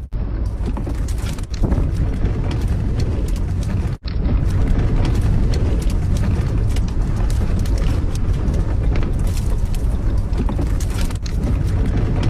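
Strong gusty wind rumbling across the microphone, with scattered small knocks and rattles. It drops out for an instant about four seconds in.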